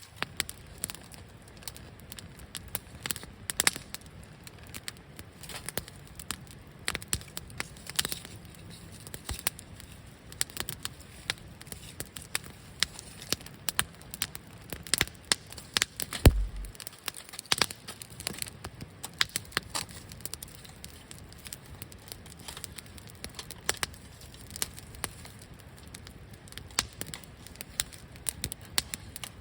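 Wood campfire crackling and popping, with frequent irregular sharp pops over a low hiss. One louder pop with a dull thump comes about halfway through.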